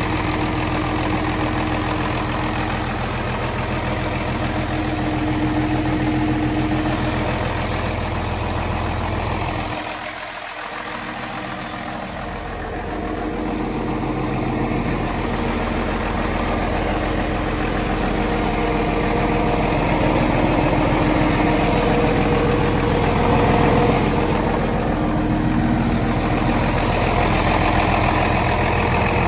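1959 Farmall 560 tractor's six-cylinder engine idling steadily, its low end dropping away briefly about ten seconds in.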